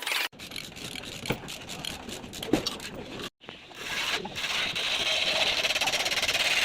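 Car bodywork repair noise: a few sharp knocks over a low rough noise in the first three seconds, then a steady hissing, whirring noise from about four seconds in.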